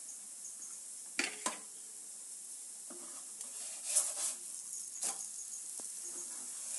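Ghee sizzling under a puran poli frying in a non-stick pan, with a few scrapes and taps of a metal spatula against the pan as the flatbread is lifted: about a second in, around four seconds and again about five seconds in.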